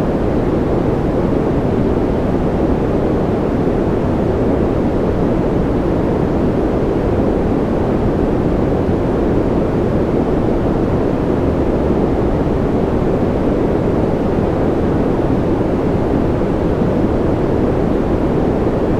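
Steady white noise for sleep, even and unchanging, with a deep, muffled tone and no separate drops, tones or events.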